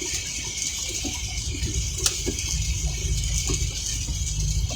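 Light rain ticking on a vehicle, over a steady hiss and a low rumble.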